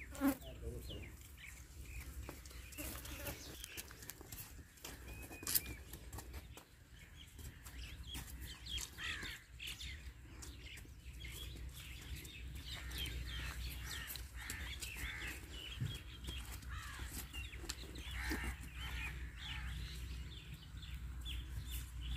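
Farmyard birds chirping and calling on and off, over a low steady rumble. Two sharp knocks stand out, one right at the start and one a little past five seconds in.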